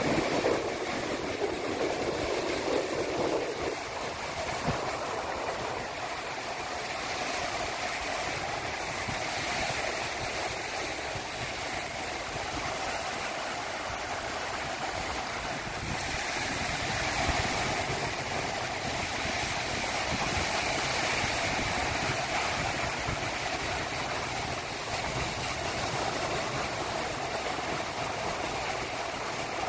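Sea waves washing in with wind: a steady rushing that slowly swells and eases.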